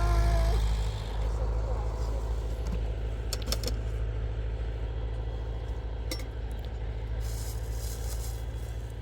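A vehicle engine running steadily, with a few light metallic clinks and rattles over it.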